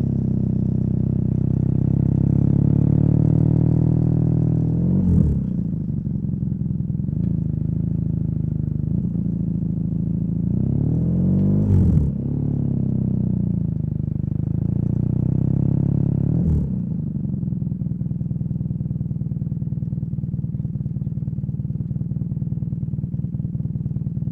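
BMW R nineT boxer twin with a Competition Werkes slip-on exhaust under way. The engine note rises and falls with short breaks about 5, 12 and 16 seconds in, like gear changes. It then holds a steady drone for the last several seconds.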